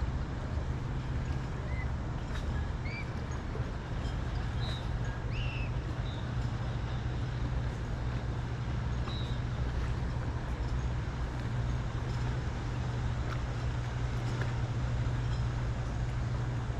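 Motorboat engine running steadily as a low drone across the water, with a few short bird chirps in the first half.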